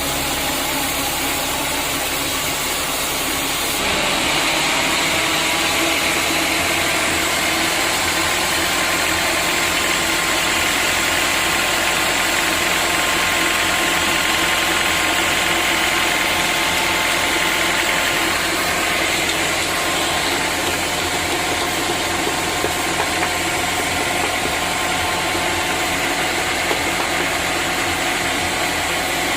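Sawmill machinery running steadily with a continuous engine-like drone, louder from about four seconds in.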